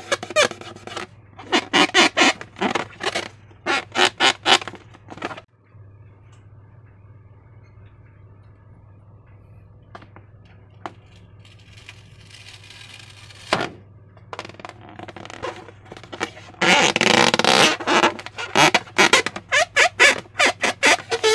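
Hands squeezing and kneading slime, wet squelching and crackling pops in quick succession. It comes in two bouts, at the start and again from about three-quarters of the way in. Between them is a quiet pause with a few single clicks.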